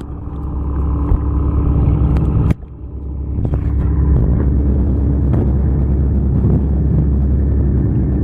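An engine running steadily, a low droning hum with a steady pitch. It cuts off sharply about two and a half seconds in, then builds back up to the same drone.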